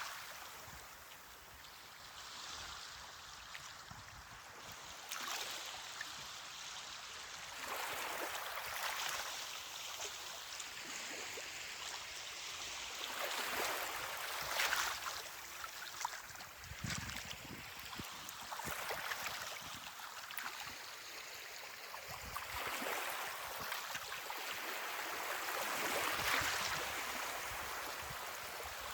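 Small ocean waves breaking and washing up a beach, a hiss of surf that swells and recedes every few seconds, with a sharper splash about halfway through and another near the end.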